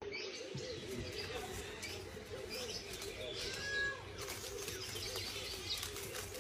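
Birds calling in a chorus, with low cooing calls repeating throughout and a single short whistled call a little past halfway.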